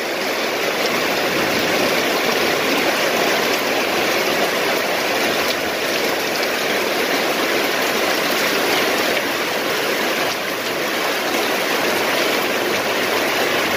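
Heavy rain falling steadily on a waterlogged garden, a dense even hiss.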